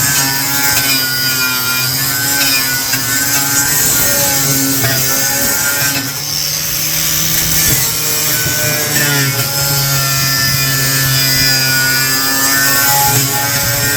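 Corded Bauer angle grinder running with a 4.5-inch strip disc against a surface. Its motor note wavers with the load and dips briefly about six seconds in.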